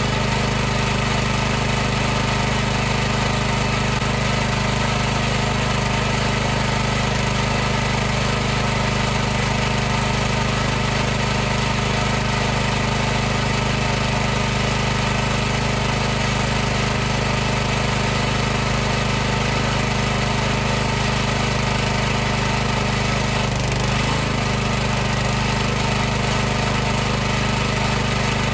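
High-pressure washer running steadily, its motor and pump giving a constant buzzing hum, with a brief waver in pitch near the end.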